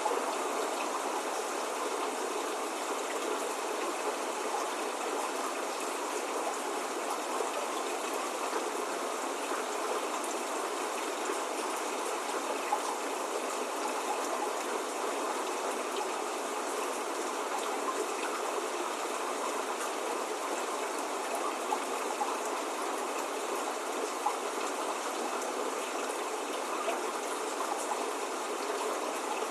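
Steady spring rain falling without a break, with a few faint scattered drop ticks over the even hiss.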